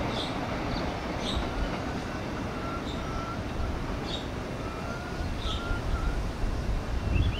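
Passenger train running away down the track: a steady rumble of wheels on the rails, swelling a little lower and louder near the end.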